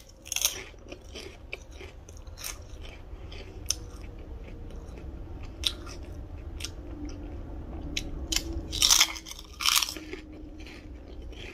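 Close-up crunching and chewing as a person bites into crisp fried snack pieces, with sharp crunches every second or two and the loudest crunches about nine and ten seconds in.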